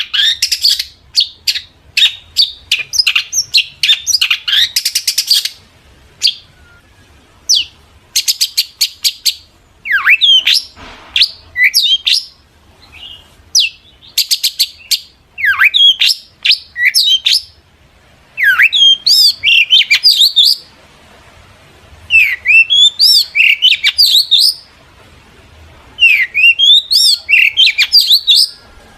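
Long-tailed shrike (cendet) singing vigorously: fast runs of short chattering notes and sharp falling whistles, in phrases a few seconds long with brief pauses between them.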